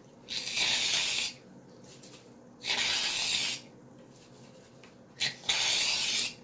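Aerosol can of shaving cream being sprayed out in three spurts of hiss, each about a second long, with a short click from the nozzle just before the last one.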